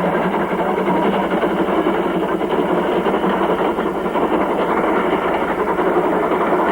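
LMS Jubilee class three-cylinder steam locomotive working hard on a climb, its exhaust and train a steady, loud roar.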